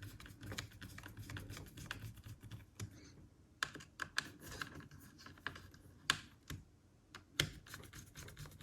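Screwdriver driving the heatsink screws into a laptop: a fast run of small metal clicks and ticks for the first three seconds, then scattered louder single clicks.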